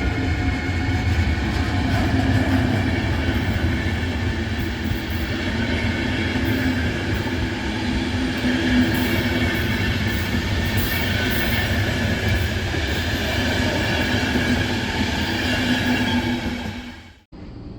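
A train running past on the tracks: steady loud rumble and wheel noise with a faint clickety-clack and a held hum. The sound cuts off suddenly near the end.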